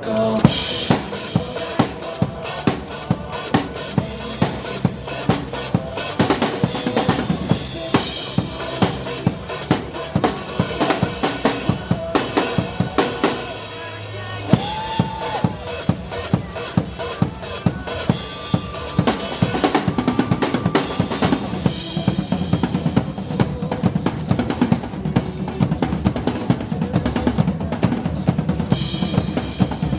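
Pop-rock music driven by a drum kit: a steady bass-drum and snare beat, about two hits a second, over a pitched backing track. The beat briefly drops out a little before the middle, then comes back fuller and louder.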